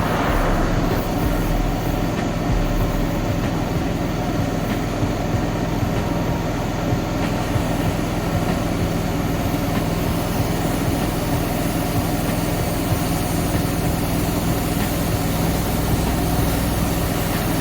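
A steady machine drone, like an engine running at a constant speed, with an even hiss over it.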